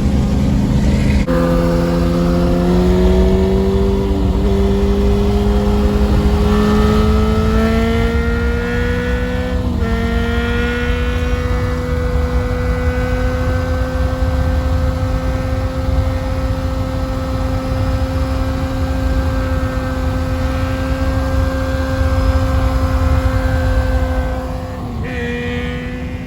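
Suzuki GSX-R 1000 inline-four sportbike engine pulling hard under way. Its pitch climbs with brief dips at upshifts about 1, 4 and 10 seconds in, then holds steady at high revs before dropping near the end.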